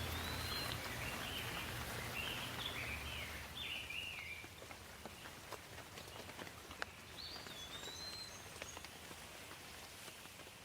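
Light rain with scattered drops ticking, while a songbird sings a run of quick warbled phrases over the first few seconds and one more short phrase later on.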